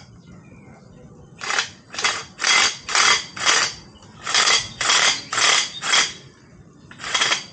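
Hand reamer being twisted in the cut end of EMT electrical conduit, scraping off the burr. The strokes come about two a second: a run of five, a short pause, a run of four, then another run starting near the end.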